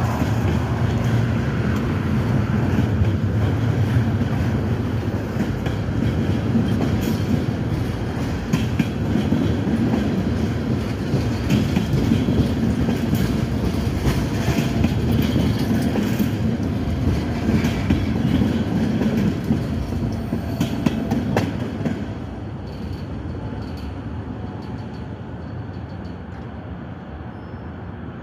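Freight train of tank cars rolling past below, a steady low rumble of wheels on rails with scattered sharp knocks. About 22 seconds in, the last car goes by and the sound drops to a fainter, fading rumble.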